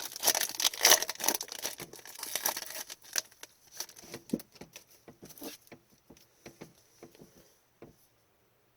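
A trading-card pack wrapper being torn open and crinkled, loudest for the first few seconds. Then come softer rustles and light taps as the cards are handled, fading out near the end.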